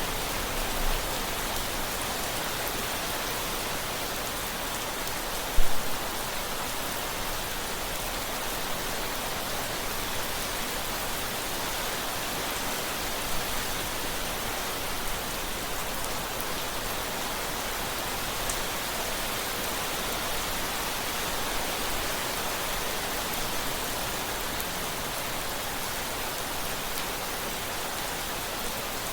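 Steady rain, an even hiss of falling drops, with one brief low thump about six seconds in.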